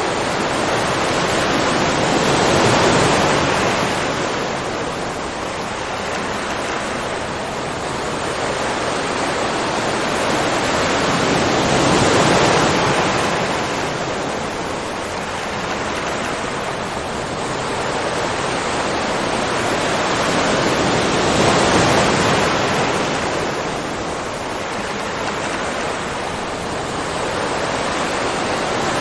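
Ocean waves surging and washing onto a shore, a continuous rush that swells to a peak about every nine to ten seconds, with smaller swells in between.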